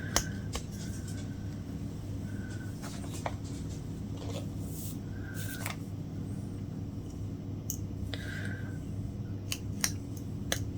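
Latch hooking: scattered small clicks and faint brief scratches as the latch hook tool pulls yarn knots through the canvas grid, over a steady low hum.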